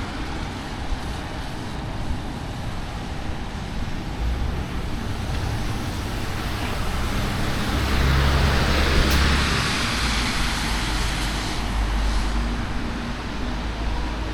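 Road traffic on rain-wet city streets: a steady hiss of tyres and engines. About halfway through, a vehicle passes close, its low engine rumble and tyre swish swelling and then fading.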